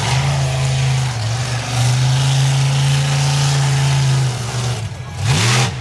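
Monster truck engine running hard at steady high revs, then blipped several times in quick succession near the end.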